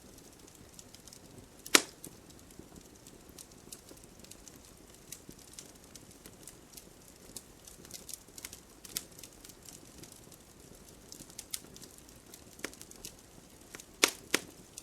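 Campfire burning with irregular crackling and popping of the wood, over a faint steady hiss. One loud pop about two seconds in and two more close together near the end.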